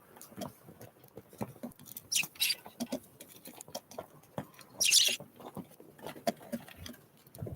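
Small wild birds moving about close to the microphone: irregular light tapping and scratching, with a few short rustling bursts, the loudest about five seconds in.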